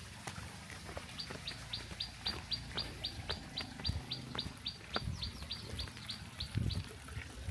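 A bird calling a rapid series of short, high chirps, about four a second, for several seconds.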